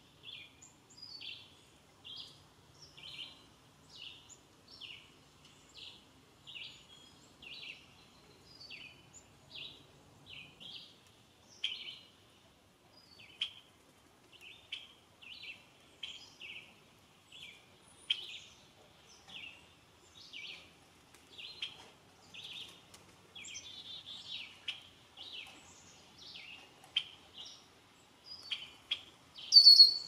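A bird chirping over and over, about one and a half short chirps a second, with one louder, higher call near the end.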